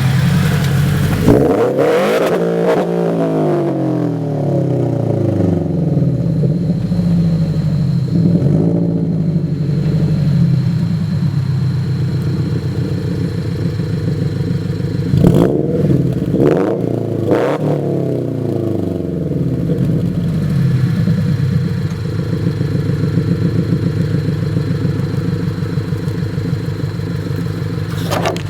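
Subaru BRZ's flat-four boxer engine idling through a Borla unequal-length header and muffler-delete exhaust, blipped up and back down about a second and a half in, once lightly around eight seconds, and three times in quick succession around the middle, then settling back to idle. The header has a slight exhaust leak from warped flanges, according to the owner.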